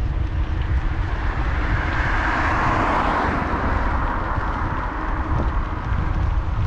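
A car passing, its noise swelling to a peak about three seconds in and then fading, over a steady rumble of wind on the microphone.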